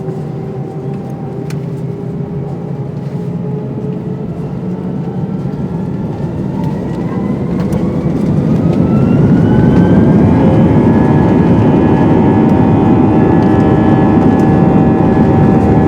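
Airbus A319's twin jet engines spooling up to takeoff power, heard from inside the cabin. A rising whine climbs over about four seconds, starting around six seconds in, and the engines then run steadily at high power with a loud rushing rumble.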